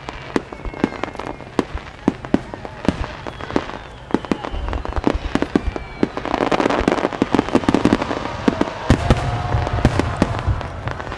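Starmine fireworks barrage: aerial shells bursting in rapid succession, with thin whistles in the first few seconds. It builds to a denser, louder volley about six seconds in.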